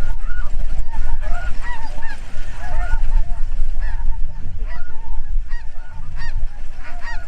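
A flock of snow geese calling: many short, arched, high-pitched honks overlapping without a break, over a steady low rumble.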